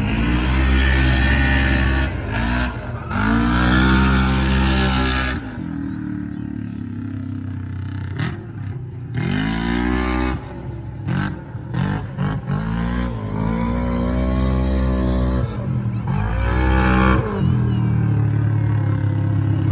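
Monster truck engine revving hard again and again, its pitch climbing and dropping back several times with rough, loud bursts on the peaks.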